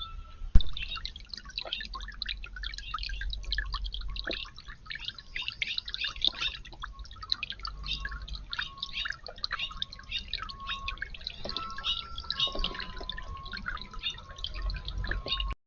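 Water trickling and dripping in a garden fountain: a steady patter of many small splashes.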